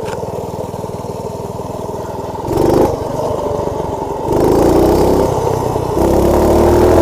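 Motovox minibike's small engine running low, then opened up three times, its pitch rising with each burst of throttle, the last two the loudest.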